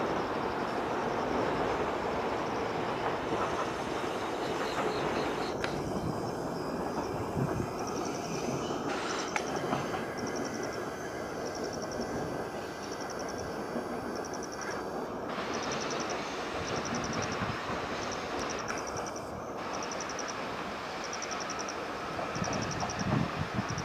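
A train running through the station with a steady rolling rumble that eases off slightly over the stretch.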